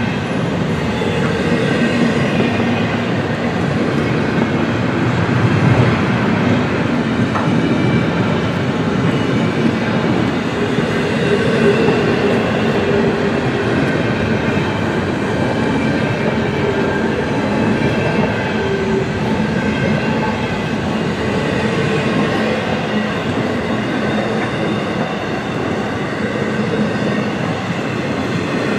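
Freight cars of a passing train rolling by steadily: a continuous rumble of steel wheels on the rails.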